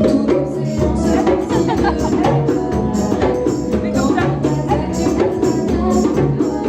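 Live band music with a steady percussion beat.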